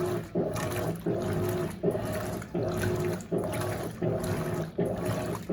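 Electrolux LAC16 top-loading washing machine agitating at high water level. The water sloshes in even strokes, with a brief pause as the agitator reverses about every three-quarters of a second, driven by a 1/4 hp WEG motor.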